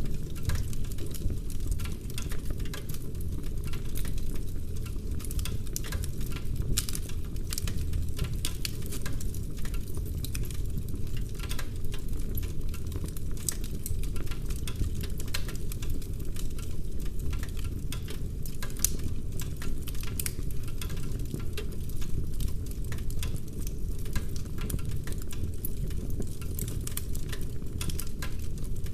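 Wood fire burning in a fireplace: dense crackling with frequent sharp pops of burning logs over a steady low rumble.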